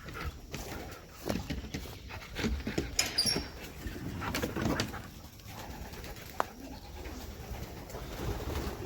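Domestic pigeons cooing inside a loft, with scattered handling noises and one sharp click about six and a half seconds in.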